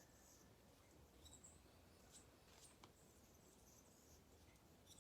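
Near silence: faint outdoor ambience with a few scattered high-pitched chirps and ticks.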